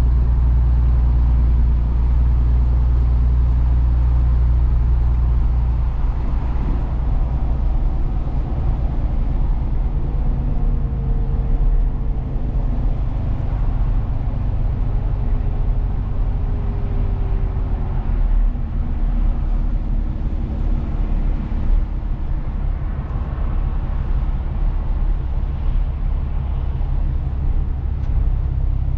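Truck driving along: steady engine hum and road rumble, more uneven after the first few seconds, with a faint whine that steps down in pitch through the middle.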